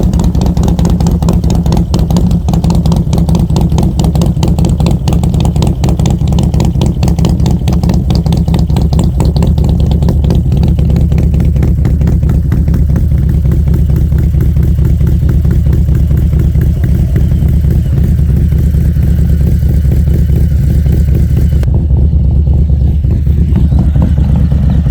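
Harley-Davidson Road Glide's Milwaukee-Eight V-twin, fitted with an S&S 475 camshaft, running through Mutazu 2.0 megaphone slip-on mufflers. The exhaust note holds a steady pitch with a rapid, even pulsing.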